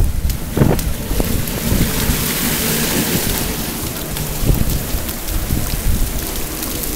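Heavy rain falling steadily, with wind rumbling on the microphone and a few low knocks.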